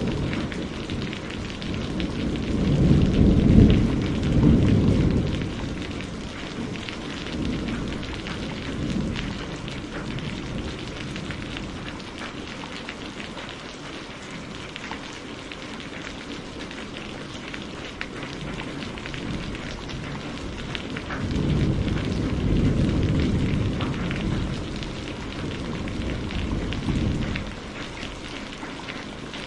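Steady rain pattering down, with low rolling thunder that swells and fades twice: a few seconds in, and again about two-thirds of the way through.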